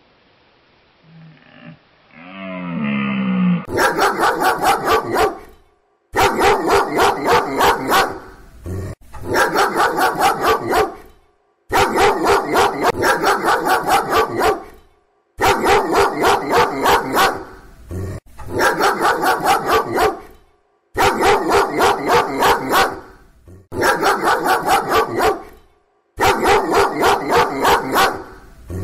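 A dog barking in quick runs of about four or five barks a second, each run two to three seconds long with brief pauses between. The barking is preceded by a few faint seconds ending in a short sound rising in pitch.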